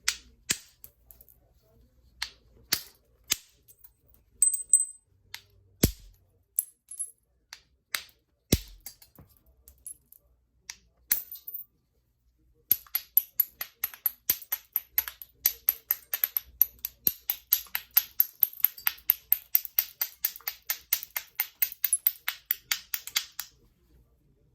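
Novaculite being flintknapped: sharp stone clicks and ticks come one at a time for the first dozen seconds. After a short pause, a fast, even run of ticks, several a second, lasts about ten seconds.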